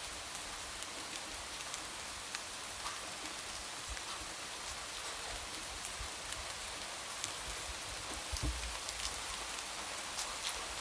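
Steady light rain with scattered individual drops tapping, a few heavier low thuds among them, the loudest a little after eight seconds in.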